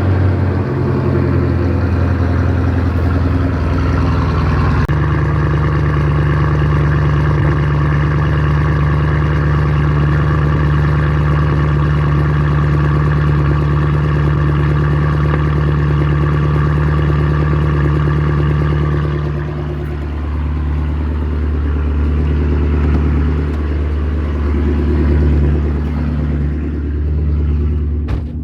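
Chevrolet Camaro SS V8 with a muffler delete and secondary cat delete idling right after a cold start, a loud, steady exhaust drone. About five seconds in the idle note changes, and near twenty seconds it dips and wavers as the idle settles.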